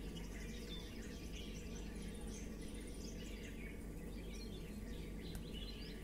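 Several small birds chirping and calling over one another in quick, overlapping notes, over a steady low background hum.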